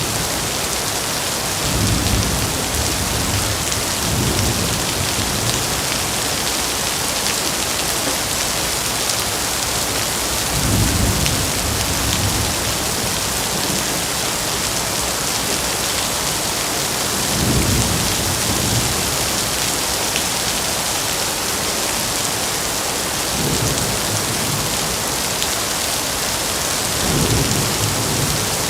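Steady heavy rain with low rolls of thunder. About six rumbles of a second or two swell and fade over the rain.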